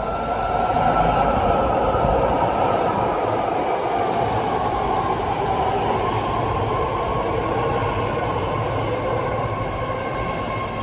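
BART Fleet of the Future train pulling into the platform: a steady rumble of wheels on rail with several whining tones, the lowest slowly dropping in pitch as the train slows.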